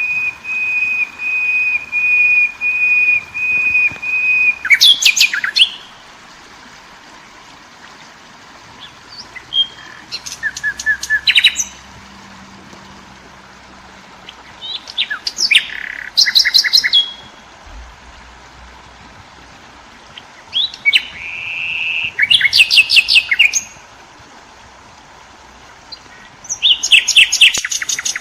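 A songbird singing: a steady high pulsing trill for the first few seconds, then short bursts of rapid chirping phrases about every five seconds. A steady rush of stream water runs underneath.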